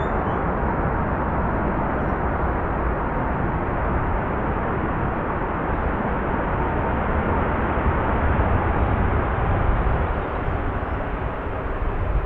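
Heavy jet airliner landing: continuous engine and airflow noise, heaviest at the low end, with a faint steady tone above it. It swells a little near the end, then begins to ease off.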